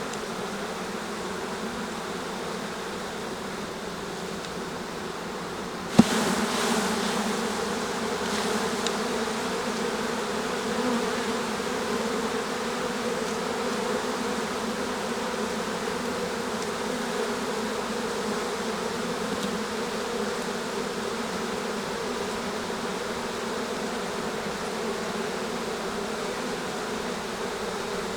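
A honey bee colony buzzing steadily around an opened hive. A sharp knock comes about six seconds in, after which the buzzing is louder.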